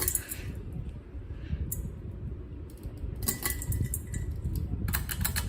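52-inch Craftmade Builder Award ceiling fan running, its airflow making a steady low rumble on the microphone, with light clinking heard in short clusters four times.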